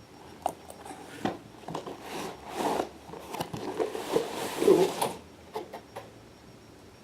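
Faux-leather cat carrier handled close to the microphone: scattered clicks and taps mixed with rubbing and scratching on the material, busiest and loudest in the middle few seconds.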